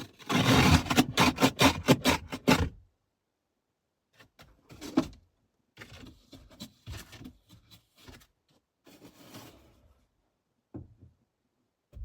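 Rapid rubbing or scraping strokes, several a second, that stop abruptly under three seconds in. Faint scattered knocks and rustles follow.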